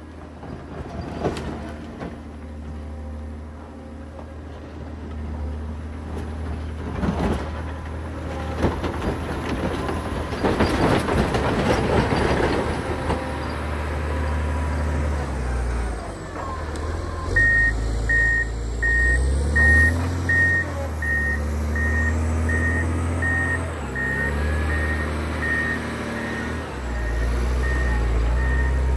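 A John Deere 670 motor grader's diesel engine runs under load, with a rougher, noisier stretch in the middle. A bit over halfway through, its reversing alarm starts beeping, about two beeps a second, as it backs up.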